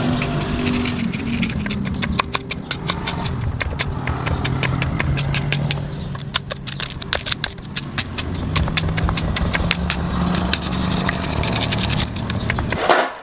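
A small engine running unevenly, its pitch drifting, with rapid irregular clicking over it.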